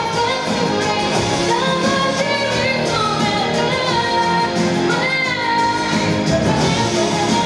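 Karaoke: a woman singing a pop song live over a backing track.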